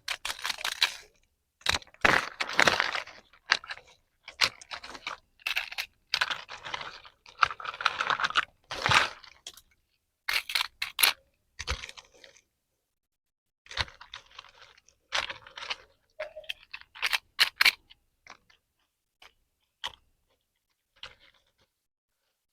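Toy packaging being handled and opened: irregular bursts of crinkling plastic and rustling with sharp clicks, starting and stopping, with a short pause midway.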